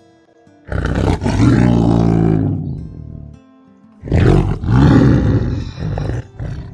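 Tiger roaring twice, two long, loud roars with a short gap between them, over soft background music.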